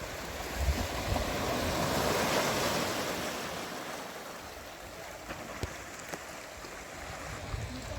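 Sea waves breaking and washing on a rocky shore, the surge swelling to its loudest about two to three seconds in and then fading. A few low thumps of wind on the microphone come about a second in.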